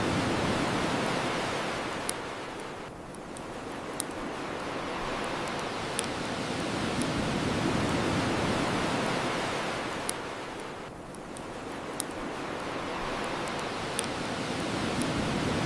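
Ocean surf washing on the shore in slow swells that rise and fall about every eight seconds, with the sharp single pops of a crackling bonfire every couple of seconds.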